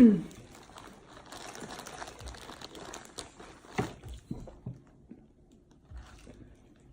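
Crunching and crinkling of seafood being pulled apart and handled while eating, with scattered sharp clicks and cracks, the clearest about four seconds in. A brief vocal sound opens it.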